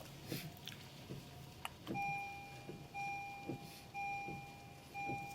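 An electronic beeper, starting about two seconds in, sounding a single steady tone of under a second roughly once a second.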